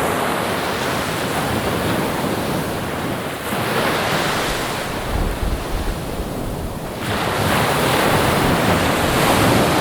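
Ocean surf: waves breaking and washing in, rising and falling, easing off in the middle and building again as a new wave surges in about seven seconds in.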